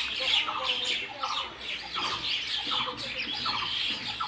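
Several small birds chattering and squawking, many short calls overlapping without a break.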